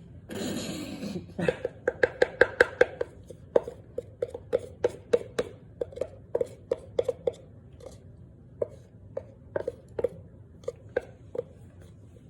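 Crunching chews of a hard starch snack: sharp crisp crunches, about five a second at first, then slower and more spaced out. A short rustling burst comes just before them.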